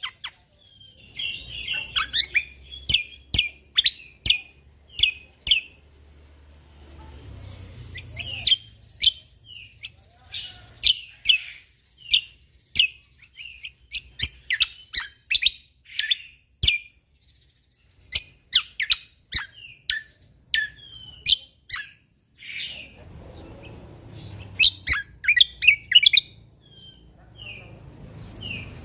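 Cucak kombo (kecial kombok) singing in loud, rapid runs of short, sharp chirping notes, broken by short pauses. A faint low hum comes and goes underneath.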